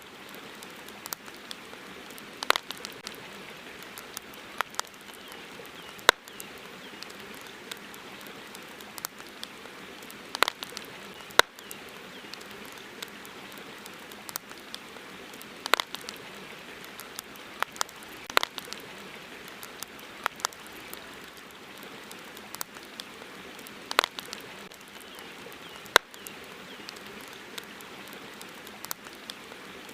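Wood campfire crackling, with sharp pops at irregular intervals, some coming in quick clusters, over a steady soft hiss of the river.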